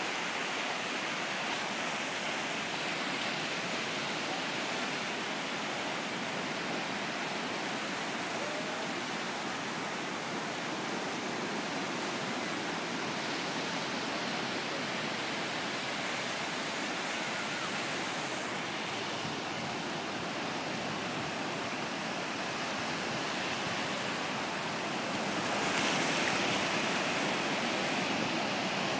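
Steady rushing wash of ocean surf. It swells louder for a few seconds near the end.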